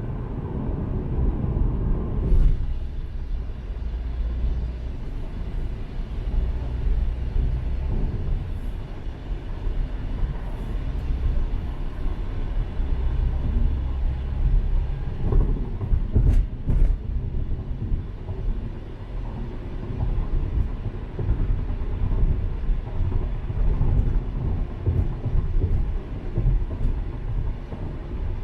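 Steady low rumble of a car's tyres and engine heard from inside the cabin while driving, with a couple of sharp knocks a little past halfway.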